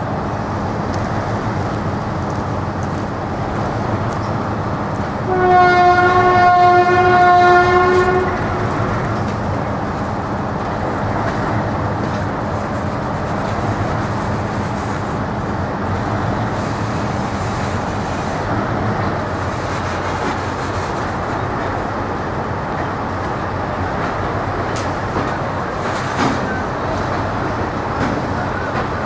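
A train horn sounds one steady note for about three seconds, starting about five seconds in, over the continuous rumble of passenger coaches rolling past on the rails.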